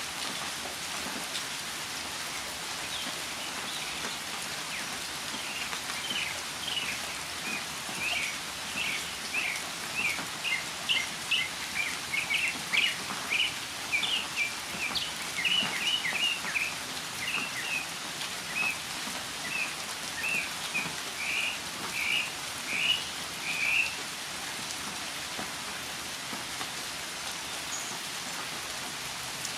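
Steady rain falling, with a northern mockingbird singing a long run of short, high notes that starts a few seconds in and stops several seconds before the end.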